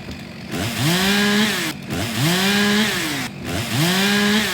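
Chainsaw engine revved three times in a row, each rev climbing quickly to a high, steady pitch, holding about half a second, then dropping back.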